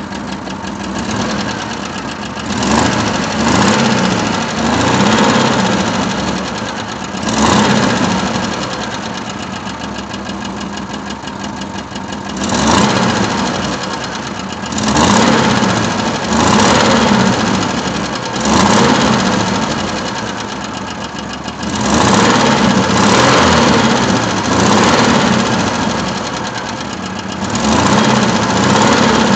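Engine running with a knock, swelling louder and easing back every few seconds as if being revved.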